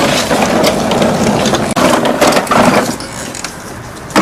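A machine running with a loud mechanical clatter, easing off about three seconds in.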